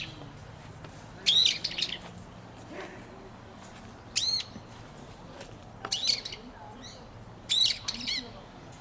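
Wild birds calling outdoors: four short bursts of high, arching calls, a couple of seconds apart.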